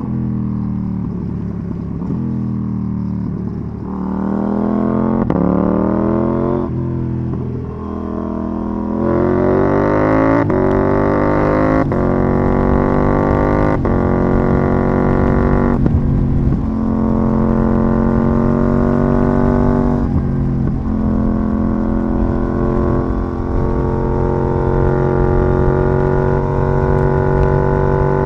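KTM 790 Duke's parallel-twin engine through an IXRace MK2 aftermarket exhaust, heard on board while riding. After several seconds at lower revs the bike accelerates hard through the gears, the pitch climbing and dropping at each of about five quick upshifts, then it settles into a steady cruise.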